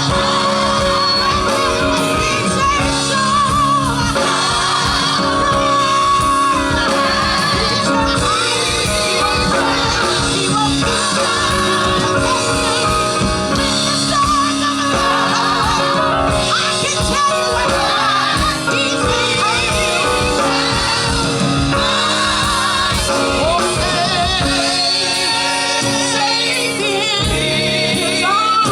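Live gospel music: singers with vibrato over a full band with a steady beat.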